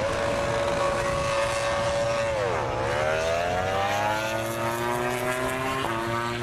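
Motorcycle engine sound effect: a steady engine note that sags about two and a half seconds in, climbs back up as it revs, then drops a step near the end like a gear change.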